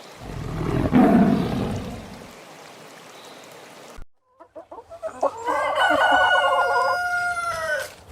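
A low, rough sound about a second in, then a rooster clucking a few times and crowing one long, steady crow that ends near the end.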